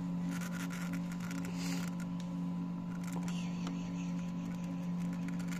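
Steady low hum with a few faint clicks over it.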